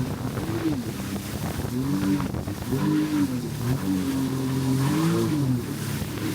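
Jet ski engine running, its pitch dropping and rising again several times as the throttle is eased off and opened, over a steady rush of wind and water noise.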